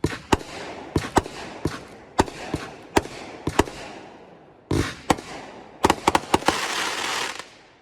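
Consumer firework cake firing its final shots: a string of sharp bangs, ending about six seconds in with a dense burst of crackle that fades out.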